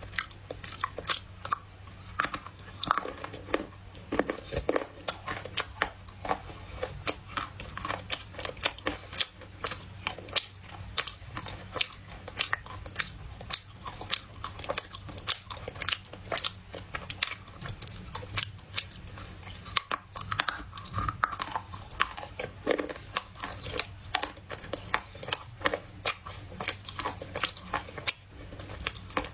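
Loess clay being bitten and chewed close to the microphone: a steady run of dry, sharp crunches and crackles.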